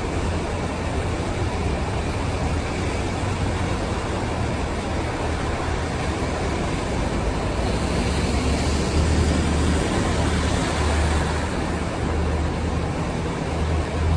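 Steady rain, an even hiss, over a low rumble that grows louder in the second half.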